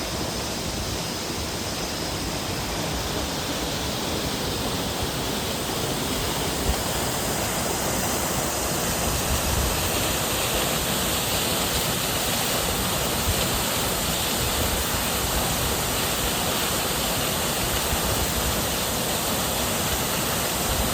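Waterfall pouring steadily, an unbroken rush of falling water that grows a little louder and brighter about a third of the way in.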